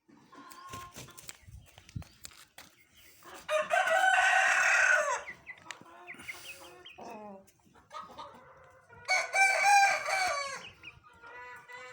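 Aseel cockerel crowing twice, each crow about a second and a half long, with softer clucking calls between and near the end.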